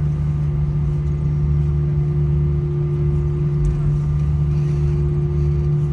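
Steady drone in the cabin of an Airbus A320 taxiing after landing, its engines at idle, with a constant low hum.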